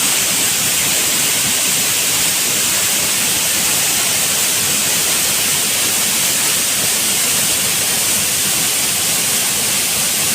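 Waterfall running: a loud, steady, even rush of falling water with no breaks.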